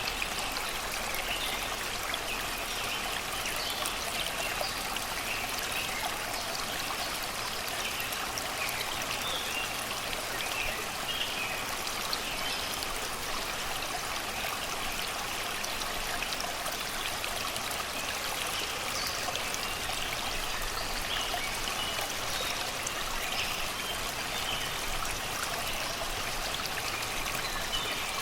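Shallow river water rushing and babbling steadily over rocks and stones, with faint bird chirps here and there.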